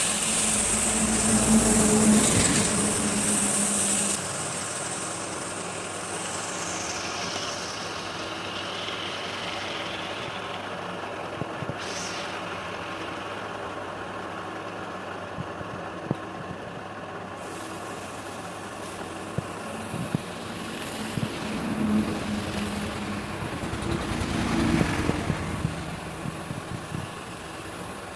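Wood lathe running steadily. For the first four seconds it is louder, with a high hiss, then it drops to a quieter steady run with a few small clicks and brief swells near the end.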